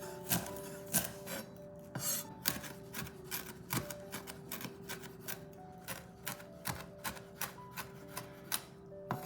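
Irregular sharp taps and scrapes of kitchen food preparation, about three a second with a short scrape about two seconds in, over soft background music.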